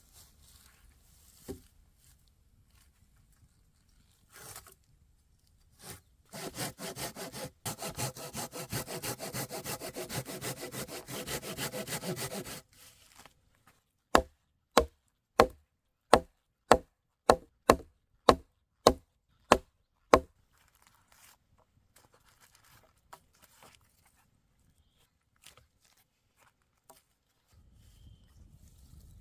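A hand saw cutting through wood with quick strokes for about six seconds, then about ten sharp knocks on wood, roughly two a second.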